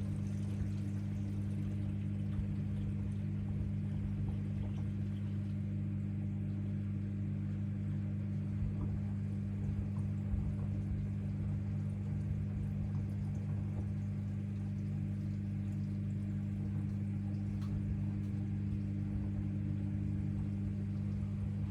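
AEG LR8FL160EX front-loading washing machine's drain pump running with a steady hum and water sounds as the drum is pumped out.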